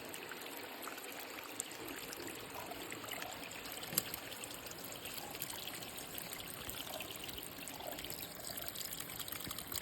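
Mountain stream trickling steadily over rocks, with a single sharp click about four seconds in.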